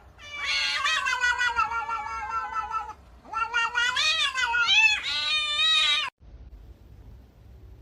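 A cat yowling: two long, drawn-out meows with a wavering pitch, one after the other. The sound cuts off suddenly about six seconds in.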